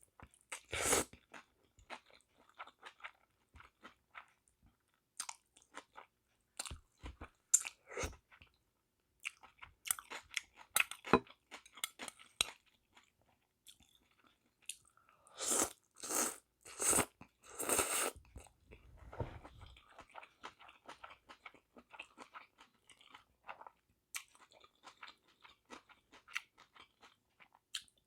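Close-miked eating sounds of someone chewing spicy sea snail bibim noodles: many small wet clicks and smacks of the lips and mouth, with a run of longer, louder mouth sounds about fifteen to eighteen seconds in.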